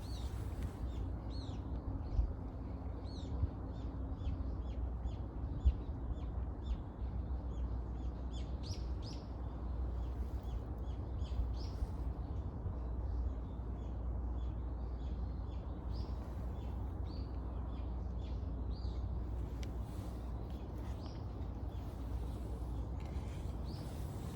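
Wild birds chirping, a steady stream of short high calls, over a low steady rumble, with a couple of sharp clicks in the first few seconds.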